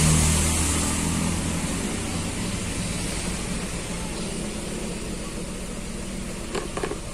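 Daihatsu Xenia 1000's three-cylinder engine idling with a misfire on cylinder 3, a steady low hum that slowly fades. A couple of faint light clicks near the end.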